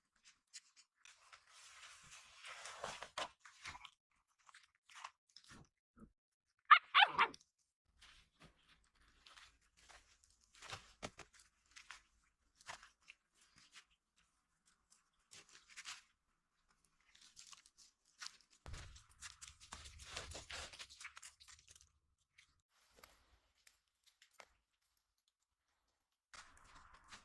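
Scattered crunching and rustling, like steps in snow and gear being handled, in two longer stretches with small clicks between. About seven seconds in, one short, loud cry that falls steeply in pitch stands out above the rest.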